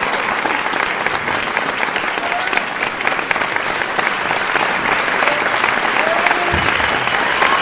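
Large crowd applauding: dense, continuous clapping at a steady level.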